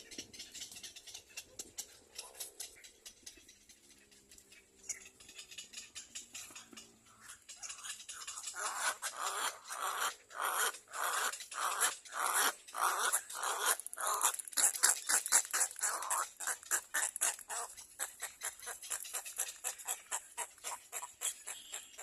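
Nestling birds begging in the nest: a rapid string of short, shrill calls, several a second, that builds up about a third of the way in, is loudest through the middle and thins out near the end.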